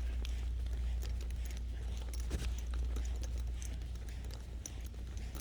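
Footsteps with scattered light clicks and taps while walking, over a steady low rumble.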